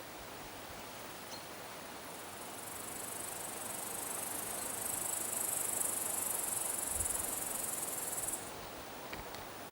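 A stridulating insect making a continuous high-pitched buzz. It swells from about two and a half seconds in and cuts off suddenly shortly before the end.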